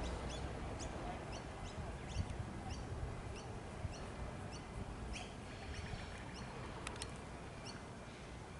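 A small bird chirping repeatedly, short high notes about twice a second, over a steady low background rumble.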